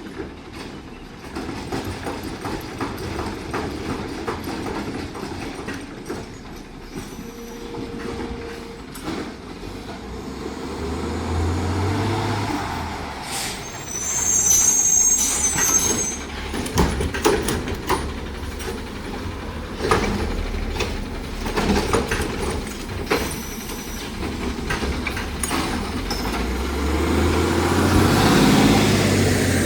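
Side-loader garbage truck working a route. Its diesel engine runs and revs up about eleven seconds in and again near the end. A sharp, high squealing hiss comes about fourteen seconds in, with scattered knocks.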